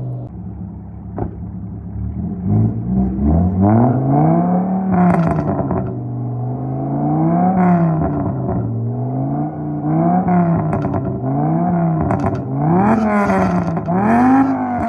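VW Jetta 2.5's inline five-cylinder engine, with an aftermarket exhaust and an IE tune, revved up and back down about seven times in quick succession. Short sharp crackles come from the exhaust as the revs fall.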